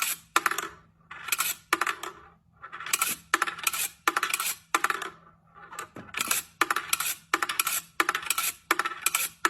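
Repeated metallic jingling, like small metal pieces shaken together, in short rattles about two a second.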